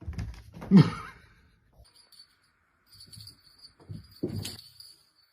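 A pet's short cry about a second in, falling steeply in pitch, followed by a few softer scattered sounds.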